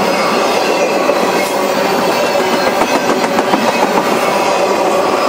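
Intermodal freight train's cars rolling past close by: a steady, loud rumble and rattle of steel wheels on rail, with a run of clacks over rail joints in the middle.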